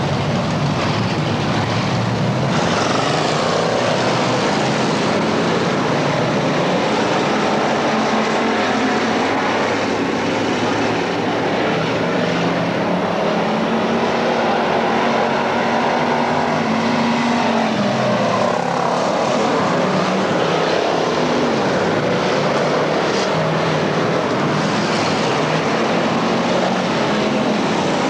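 Several dirt-track race car engines running hard at speed, their pitch rising and falling as the cars pass and circle the track.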